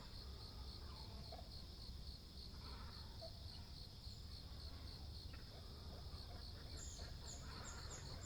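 An insect chirping steadily, high-pitched and pulsing at an even rate of a few pulses a second. Faint bird calls come through now and then, and a small bird gives quick high chirps near the end.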